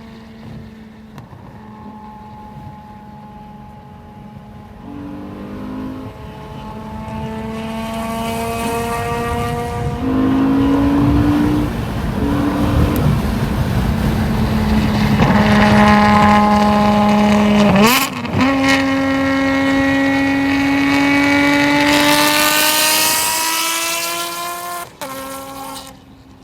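Ferrari 599's 6.0-litre V12, fitted with headers and a full race exhaust, accelerating hard: the revs climb repeatedly and drop back at quick gear changes, one sharp shift about eighteen seconds in, growing much louder. Near the end the throttle is lifted and the engine falls away.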